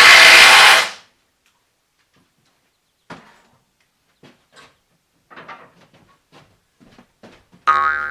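A loud, hiss-like burst of noise about a second long, then a pause, then scattered light knocks and clatter of handling. Near the end comes a cartoon 'boing' sound effect, its pitch falling.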